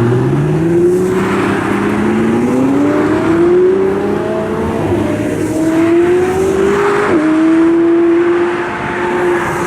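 Car engine and exhaust under hard acceleration, the engine note climbing steadily, dropping sharply once at a gear change about seven seconds in, then holding a steady pitch.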